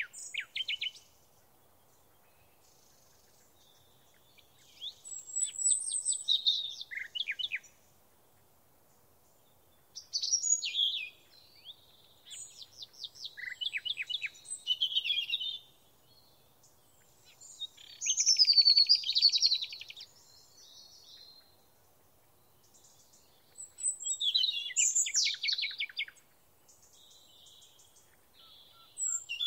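Songbirds singing: short phrases of high chirps and fast trills, a few seconds apart.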